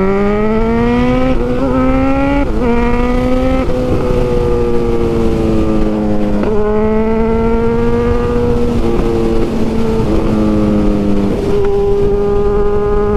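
Honda CB1000R's inline-four engine pulling hard through two quick upshifts, its note rising and dropping back each time in the first few seconds. It then settles into a steady cruise with small throttle changes, over rushing wind noise.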